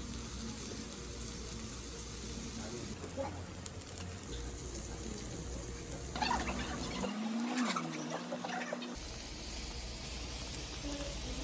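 Meat sizzling on a hot stone grill plate, a steady hiss that changes abruptly several times between short clips, with a few light clicks.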